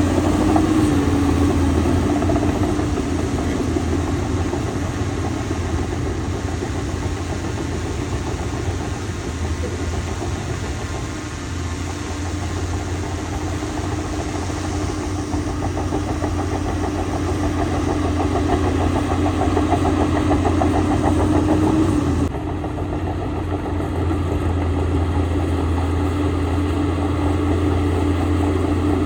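Diesel engine of heavy earthmoving machinery running steadily, with a strong low hum and a wavering mid-pitched drone. About 22 seconds in the sound changes abruptly, its higher hiss dropping away.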